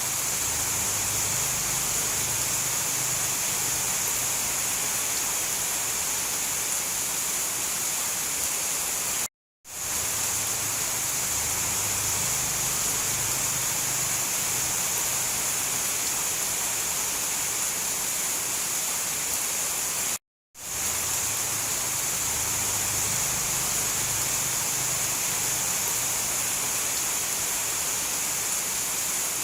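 Steady heavy rain, an even hiss. It cuts out briefly twice, about a third and two thirds of the way through, and fades back in each time where the recording loops.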